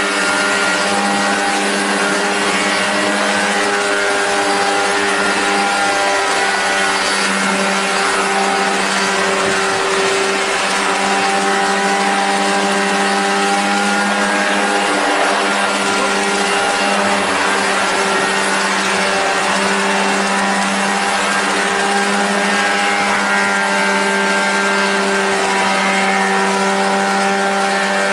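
Engine of a homemade aircraft running steadily at a constant pitch, with a strong low hum and its overtones over a rushing noise.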